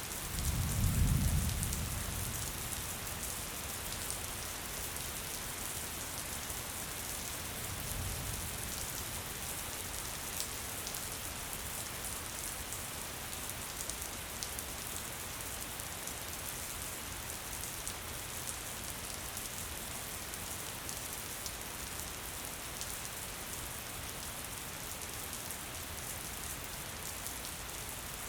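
Gentle rain falling steadily, an even patter of drops. A low rumble swells briefly about a second in, and a fainter one comes near eight seconds.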